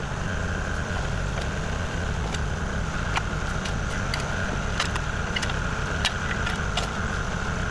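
Kubota KX040 mini excavator's diesel engine running steadily, with scattered sharp clicks and knocks throughout.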